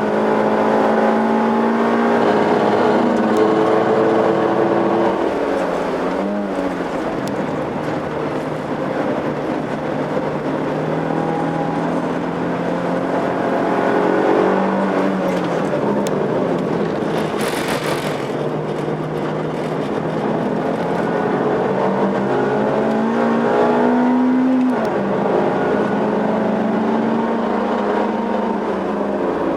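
Suzuki Swift's engine being driven hard around a circuit: its pitch climbs under acceleration, drops as the driver lifts off, and climbs again several times, over steady tyre and road noise.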